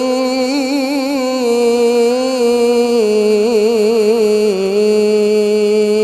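A Quran reciter's voice holds one long melodic note in tilawah style while chanting the closing formula "Sadaqallahul 'azim". The note carries trilled ornaments about half a second in and again between about three and four and a half seconds in, and it steps down in pitch about three seconds in.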